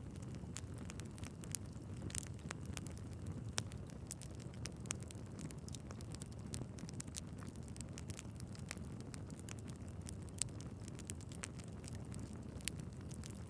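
Wood fire burning steadily in a fireplace, with a low rumble of flames and frequent irregular sharp crackles and pops from the logs.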